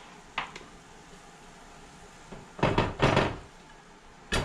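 Hard knocks of a cup against a plate as the cup is tapped and banged to free moulded rice that has stuck inside it. A light tap comes first, then two quick clattering runs of knocks, then one sharp knock near the end.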